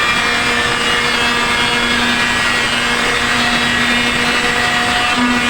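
Electric power sander running steadily against the ceiling, a constant motor hum under a rough grinding noise.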